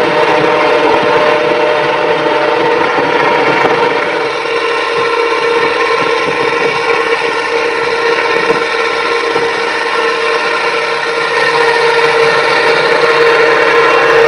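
A machine's engine running steadily under constant load. It drops a little in loudness about four seconds in and picks up again near the end.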